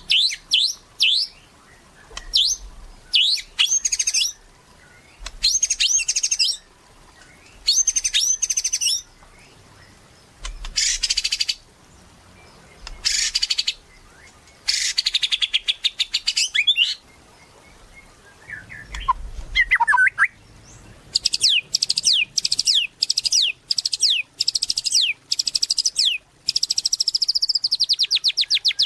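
White-rumped shama (murai batu) in full song: short, loud phrases of clear whistles and fast chattering trills with brief pauses between them, then a long run of quick downslurred notes and a buzzy trill near the end.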